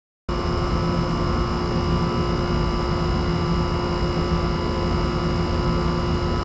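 Air-conditioner outdoor unit running with a steady electrical hum, starting abruptly after a short silence at the start.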